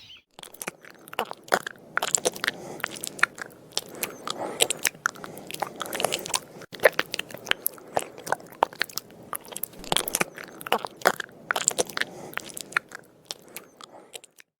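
An animal crunching and chewing food: a fast, irregular run of crisp crunches with a few short pauses.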